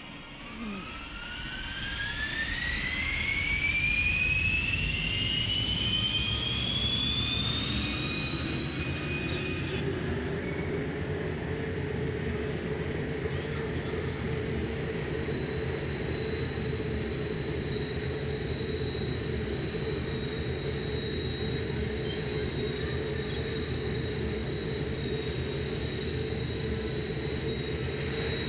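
Jet airliner engines spooling up: a whine rising in pitch for about ten seconds, then holding steady over a constant low rumble.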